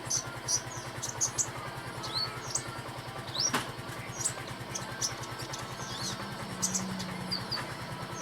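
Sunbird (Indonesian 'kolibri') giving short, high chirps, roughly two a second, over a steady low hum like an idling engine.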